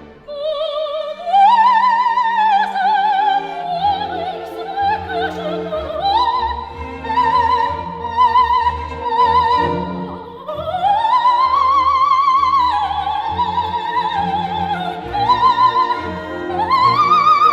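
Background music: an operatic soprano singing long held notes with a wide vibrato over orchestral accompaniment.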